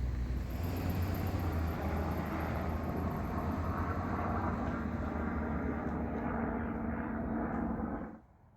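Steady engine drone of a passing vehicle, low and even, cutting off suddenly near the end.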